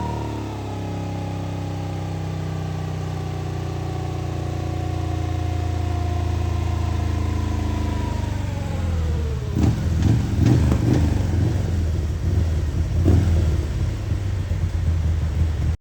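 Harley-Davidson Milwaukee-Eight V-twin with an S&S 475 cam and aftermarket exhaust, its engine speed falling steadily for about nine seconds. It then drops to an uneven, lumpy idle with a few loud irregular pulses.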